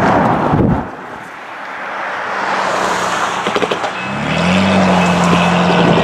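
A diesel-hauled train approaching a level crossing: a broad rushing noise, then a steady low hum that comes in about four seconds in and holds.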